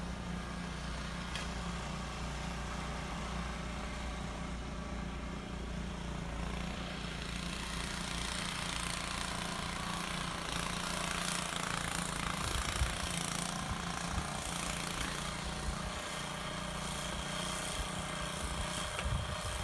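A small engine running steadily, with a rushing hiss growing about seven seconds in.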